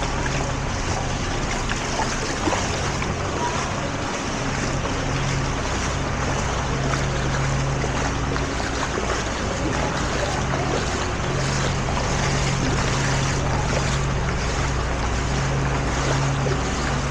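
A vehicle engine running with a steady low hum under a constant rushing noise of water and wind.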